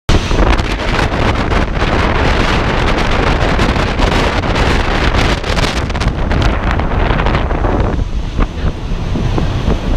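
Strong wind buffeting the microphone: a loud, low rumble with gusty hiss on top. About seven and a half seconds in, the hiss eases while the low rumble goes on.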